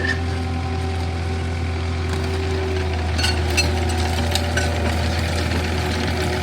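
Engine idling steadily, with a few short sharp metallic clanks about three to four and a half seconds in.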